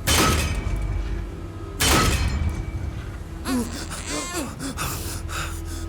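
Two heavy crashing impacts with a ringing tail, one at the start and one about two seconds in, over a low steady hum. They are followed by short voice-like gasps and groans.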